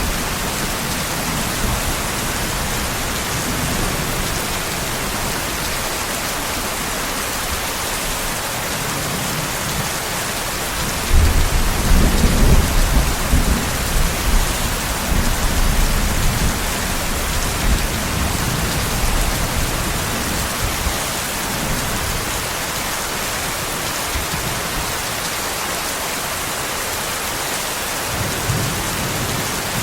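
Steady heavy rain hissing, with a roll of thunder rumbling in about a third of the way through and fading away over several seconds; another rumble starts at the very end.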